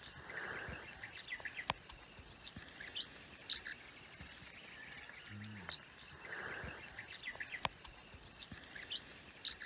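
Birds chirping and calling, many short high calls scattered throughout, with a few sharp clicks.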